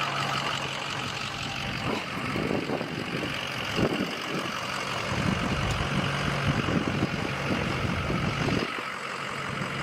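Snowplow truck running, heard from inside the cab: a steady engine hum under a constant rushing noise, with irregular low rumbles through the middle as the truck works.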